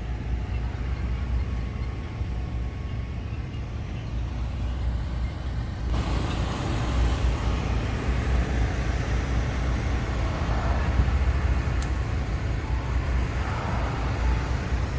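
Steady low engine rumble. A louder, broad hiss joins it suddenly about six seconds in and stays.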